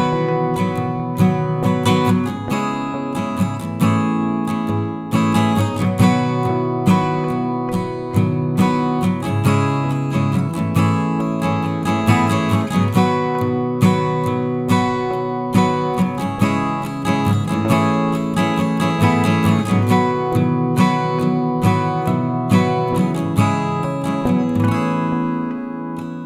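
Acoustic guitar music, plucked and strummed at a steady rhythm.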